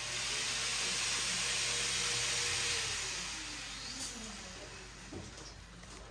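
A loud, steady hiss that starts suddenly, holds for about three seconds, then fades away.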